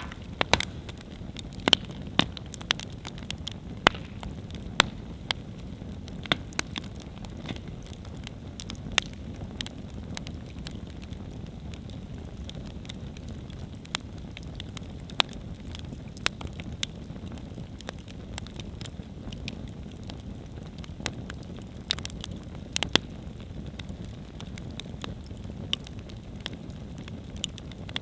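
Wood campfire burning: a steady low rumble of flames with irregular sharp crackles and pops from the burning wood, coming more thickly in the first few seconds and again about three-quarters of the way through.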